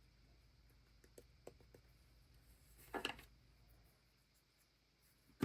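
Near silence with quiet craft handling: a few faint light taps, then one brief scuff of paper or stamp pad about three seconds in.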